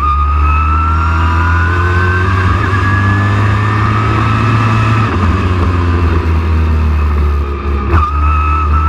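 Race truck engine running hard at speed, its whine rising steadily over the first few seconds and then holding level. A sharp click comes about eight seconds in.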